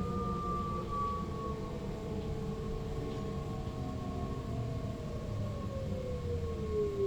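Electric traction motor and inverter whine of an NS Sprinter Lighttrain, heard from the cab over a steady running rumble. The whine falls slowly and steadily in pitch, as it does when an electric train slows under electric braking.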